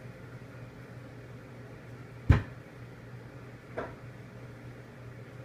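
Two knocks, a sharp loud one about two seconds in and a lighter one a second and a half later, over a steady low hum.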